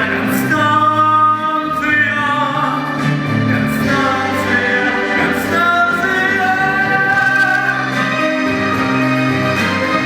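Singing over instrumental accompaniment, with long held notes.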